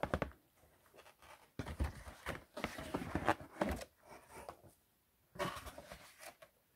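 Packaging and plastic DVD cases being handled: three spells of rustling and clicking separated by short pauses.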